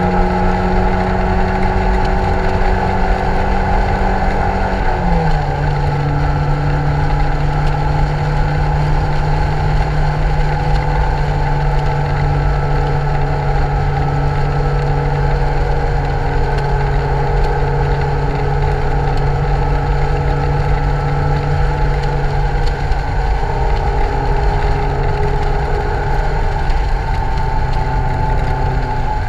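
Lotus Elise 111R's 1.8-litre Toyota four-cylinder engine running hard at steady high revs, heard from its open cockpit. About five seconds in its note drops quickly in pitch, then holds level.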